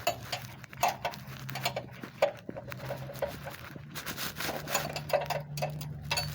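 Scattered clicks, taps and rattles of hand tools and a socket being handled, over a low steady hum.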